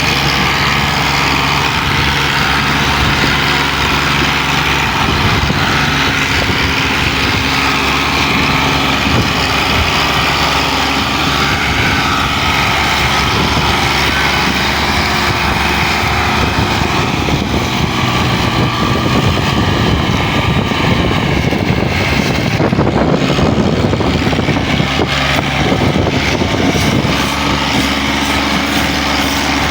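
Farm tractor's diesel engine running hard under heavy load, pulling a loaded sugarcane trolley; the sound is loud and steady.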